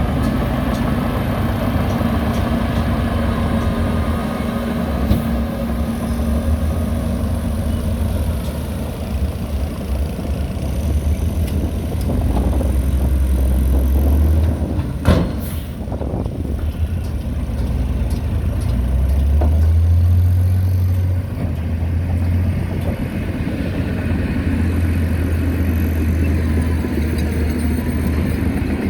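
Diesel engine of heavy earthmoving machinery running under load, a steady low drone that swells about halfway through and again about two-thirds of the way in. A single sharp knock sounds about halfway through.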